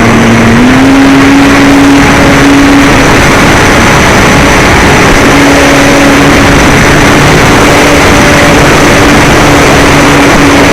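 RC model airplane in flight with its motor running: dense, very loud wind rush and propeller noise with a steady low motor hum that steps up slightly about half a second in.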